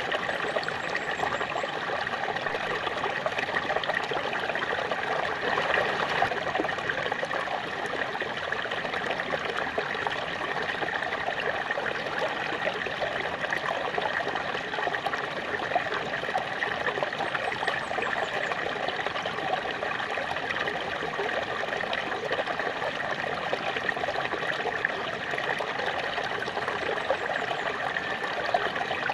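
Small waterfall splashing and trickling steadily, a continuous rushing of falling water.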